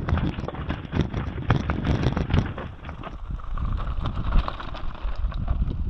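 Bicycle riding over a rough, rocky track: the tyres crunch over stones and the bike rattles with many quick, irregular knocks.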